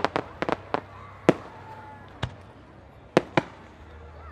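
Aerial fireworks shells bursting: a rapid string of sharp bangs and crackles in the first second, then single bangs spaced about a second apart.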